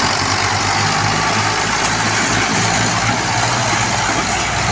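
Tractor diesel engine running steadily, with a loud even rushing noise over it.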